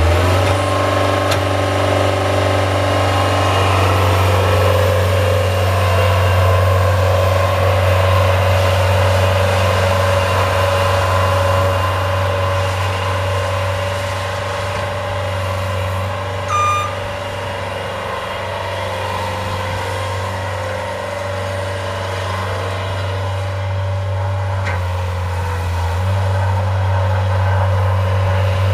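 Engine of a snow-plowing vehicle running steadily, with one short high-pitched beep or squeak a little past the middle.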